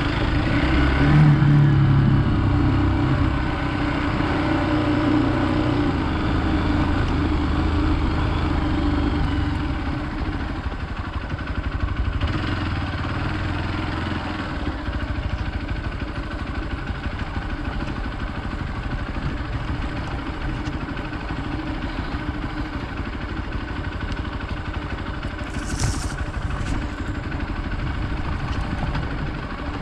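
Hero Xpulse 200 motorcycle's single-cylinder engine running while riding off-road, mixed with wind and ride noise. The engine note is strongest for the first ten seconds, then settles into a rougher, quieter rumble. There is a brief sharp noise near the end.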